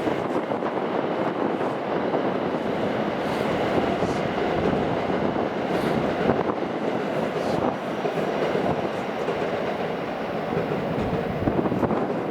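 Sanyo Shinkansen train running along the platform track: a loud, steady rush of wheel and air noise with faint clicks over the rail joints.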